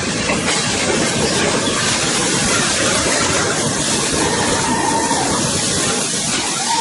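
Steady factory-floor noise of production-line machinery running, a dense even din with no breaks.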